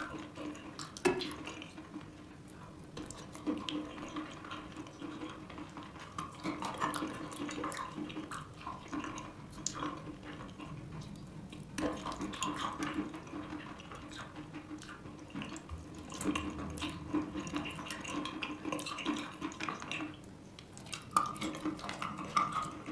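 Close-up chewing and crunching of a crumbly lump of wet chalk, full of sharp mouth clicks, crackles and moist smacking sounds.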